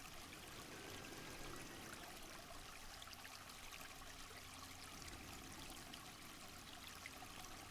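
Faint, steady trickle of water in a forest stream.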